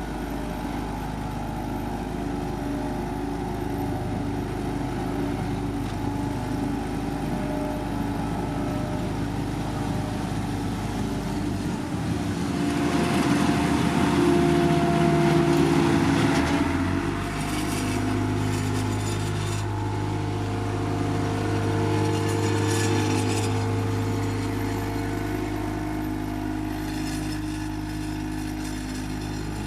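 Diesel engines of heavy road-paving machinery running steadily, growing louder and rougher for a few seconds near the middle before settling again.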